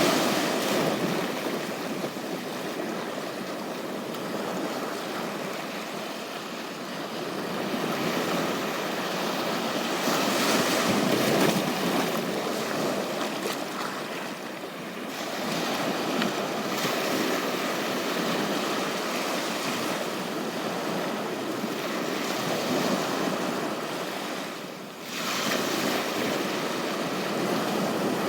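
Ocean surf washing onto a beach, swelling and easing, loudest about ten seconds in, with a brief lull near the end.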